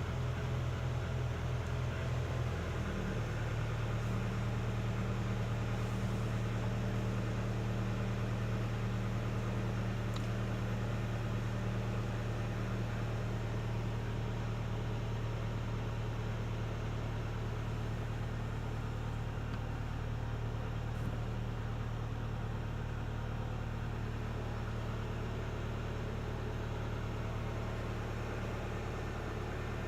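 Car engine idling steadily; its note changes about three seconds in, then holds even.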